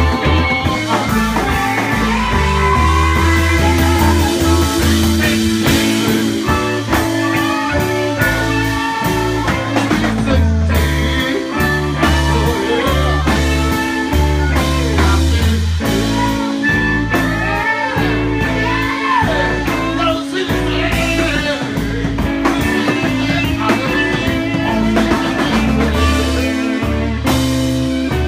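Live blues band playing: guitar lines over bass and drums, with a steady beat.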